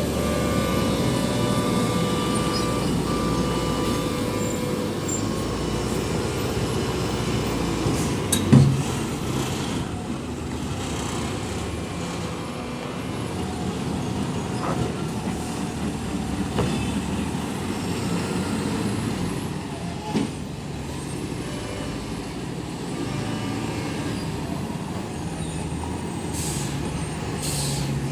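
Heavy diesel trucks running in slow, jammed traffic, with a sharp loud knock about eight and a half seconds in and short hisses near the end.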